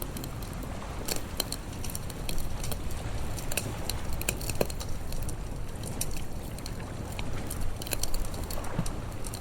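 Wood campfire crackling, with irregular sharp pops scattered through, over a steady low rush of sea waves.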